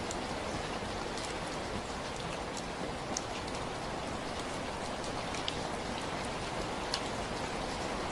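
Steady rainfall, an even hiss with scattered single drop ticks standing out now and then.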